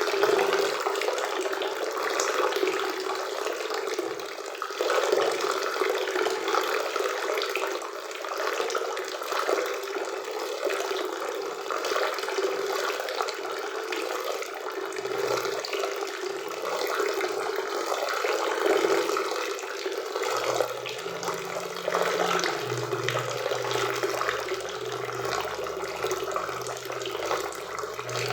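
Waterfall and river water rushing and splashing in a steady stream.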